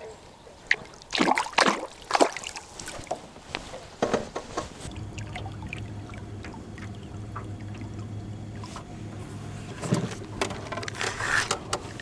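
Water splashing and dribbling with a few sharp knocks against the boat. About five seconds in, a steady low hum of a small boat motor sets in, with more clicks near the end.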